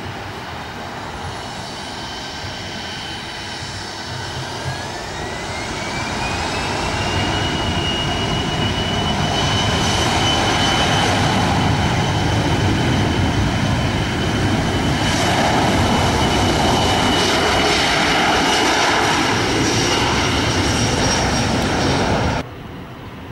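Boeing 737-800's CFM56 jet engines running with a steady roar. About five seconds in, a whine climbs in pitch and the roar grows louder, as if the engines are spooling up. Then it holds until it cuts off abruptly near the end.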